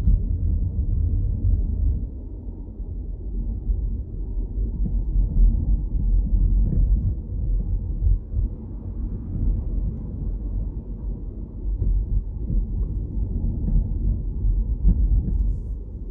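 Low, fluctuating rumble of a car driving along, with road and engine noise strongest at the bottom end.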